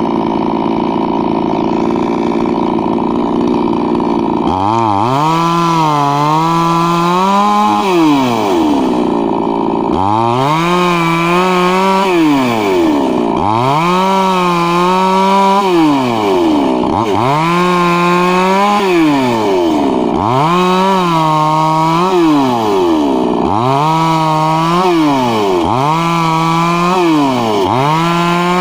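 Petrol chainsaw engine running steadily for the first few seconds, then revved up and back down over and over, each rev rising, holding briefly and falling, about every three seconds.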